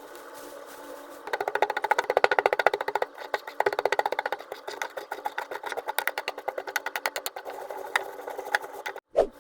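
Rapid knocking on stone, about a dozen sharp blows a second in runs, with a short lull about three seconds in and a brief break near the end.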